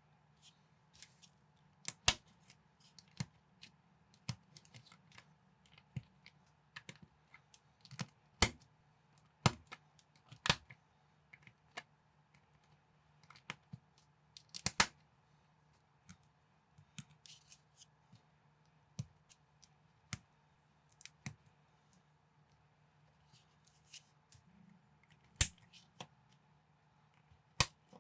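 Plastic building bricks being handled and pressed together: irregular sharp clicks and snaps, a handful much louder than the rest, over a faint steady low hum.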